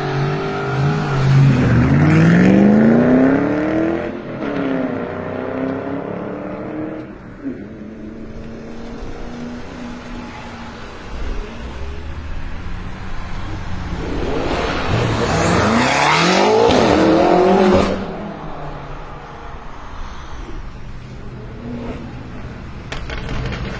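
BMW M6 Gran Coupe's twin-turbo V8 with an Akrapovic exhaust, accelerating hard twice with the engine note climbing, about a second in and again about fifteen seconds in. Each run ends abruptly after about three seconds, and the engine runs at a low, steady note between them.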